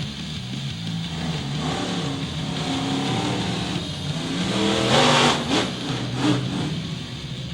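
A vehicle engine revving and running at varying pitch, climbing to its loudest rev about five seconds in.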